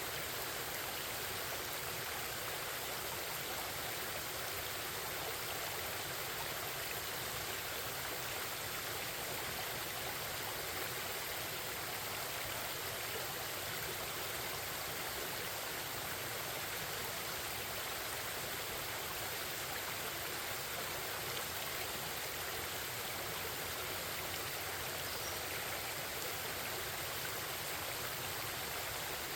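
Forest stream babbling, a steady even rush of flowing water.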